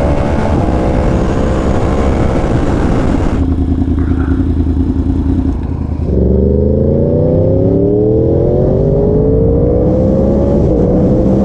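Yamaha R1 sport bike's crossplane inline-four engine on the road. It runs at speed with wind rush, eases off about a third of the way in, then accelerates hard from about halfway, its note climbing steadily.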